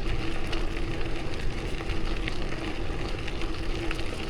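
Steady rushing noise with a light crackle: wind buffeting the microphone and bicycle tyres rolling on the trail surface.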